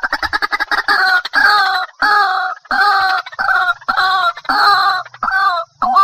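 White-breasted waterhen calling: a quick run of short notes at the start breaks into loud, harsh croaking calls repeated about twice a second.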